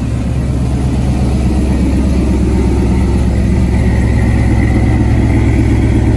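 Pickup truck engine running with a loud, steady low rumble.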